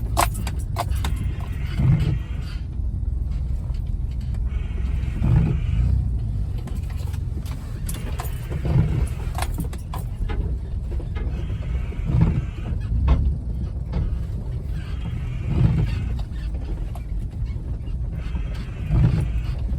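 Jeep Wrangler driving a rough, snow-packed trail in four-wheel drive, heard from inside the cab: a steady low drivetrain and tyre rumble with loose rattles and clicks. Heavier low thumps come about every three and a half seconds.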